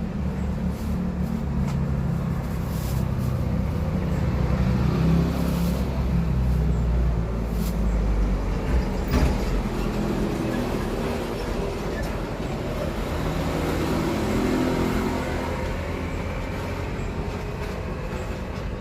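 Road traffic passing by: vehicle engines running with a steady low rumble, loudest over the first eight seconds or so and rising briefly again later.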